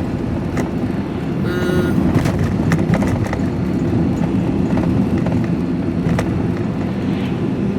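Van engine and road noise heard from inside the cab while driving: a steady low drone, with a few sharp clicks and rattles.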